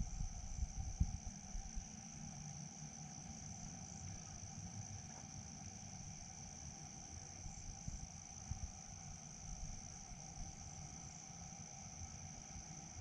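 Steady, unbroken high-pitched chirring of crickets, with a fainter lower drone beneath it, over a low irregular rumble with a few soft bumps in the first second.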